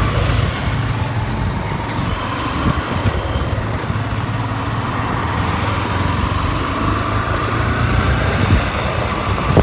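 Motorcycle engine running steadily under way, a low steady hum with road and air noise over it.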